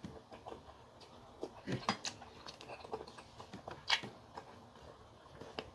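Eating sounds: chewing and wet mouth clicks, with a few sharper clicks, the loudest about two and four seconds in.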